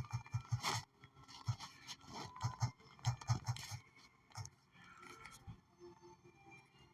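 Faint, irregular short scrapes and clicks of something being handled, getting sparser and quieter after about four seconds.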